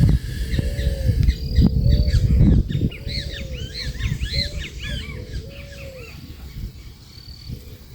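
Birds calling: a low, clear call repeated about once a second, and a quick flurry of high chirps in the middle. Low rumbling noise over the first three seconds fades away.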